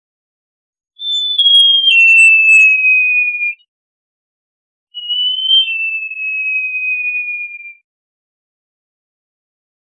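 Great jacamar calling: two long, clear whistles, each starting high, dropping in a step or two and then sliding slowly lower over two to three seconds, with a gap of about a second and a half between them.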